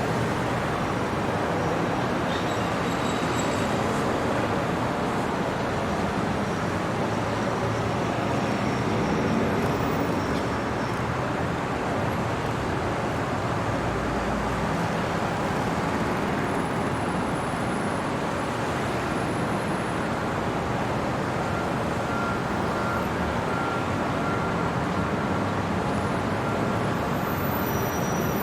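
Steady city traffic noise, an even wash of vehicle sound with no single event standing out.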